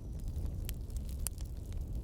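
Campfire burning: a steady low rumble of the flames with a few sharp crackling pops of the burning wood.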